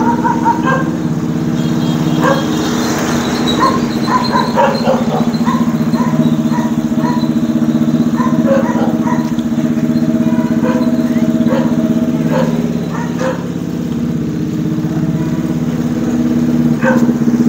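Engine of a homemade Lamborghini replica idling steadily, with short, higher-pitched sounds breaking in at intervals over it.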